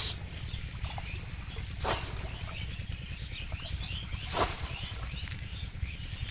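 Small birds chirping again and again in the background, with three short splash-like noises about two seconds apart, the last one the loudest.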